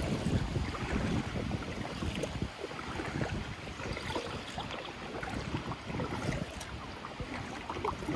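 Wind buffeting the microphone in irregular gusts, a rough low rumble that rises and falls.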